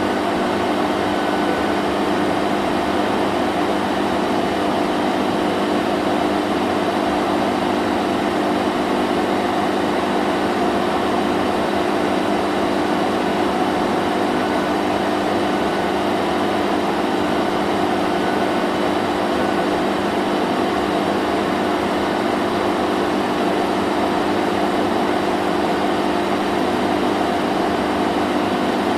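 Vacuum cleaner running steadily: an unchanging motor hum with a few fixed tones over a rushing hiss of air.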